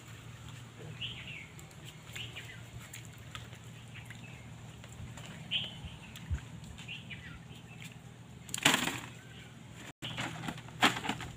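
Short bird chirps now and then over a faint steady outdoor hum, with one loud noisy burst of about half a second some nine seconds in and a few sharp noisy bursts near the end.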